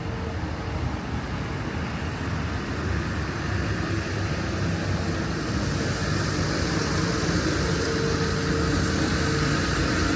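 Road traffic on a city street: a steady hum of passing cars, with tyre hiss building over the second half as a vehicle draws nearer.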